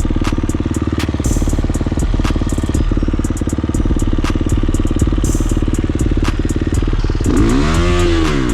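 KTM 350 four-stroke single-cylinder dirt bike engine running at a steady part throttle, with frequent sharp clicks and clatter from the bike on the trail. Near the end the engine revs up and back down.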